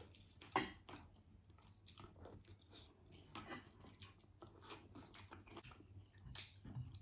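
Mouth sounds of a person eating fish and rice: faint, irregular chewing with small wet clicks and lip smacks, one louder smack about half a second in.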